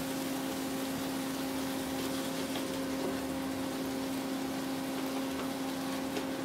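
Peas and chopped green capsicum sizzling gently in butter in a nonstick frying pan, over a steady low hum. A spatula stirs them near the end.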